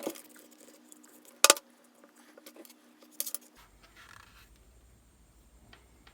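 Small metal motor parts and tools clinking against each other and the bench as they are handled: a few sharp clicks, the loudest about a second and a half in and a quick pair a little after three seconds, then faint handling noise.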